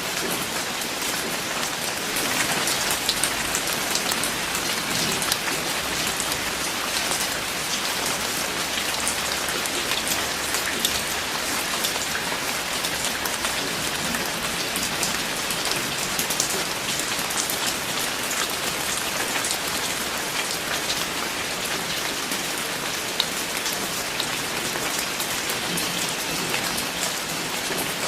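Steady rain falling on a surface, a dense even patter with many individual drop ticks.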